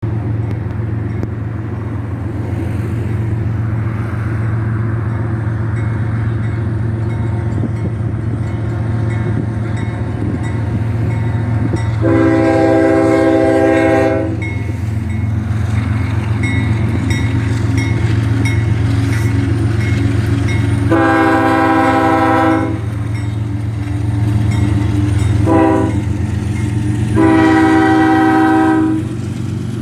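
Union Pacific diesel locomotive horn sounding the grade-crossing pattern, long, long, short, long, over a steady low rumble. The first long blast comes about twelve seconds in and the last ends just before the end.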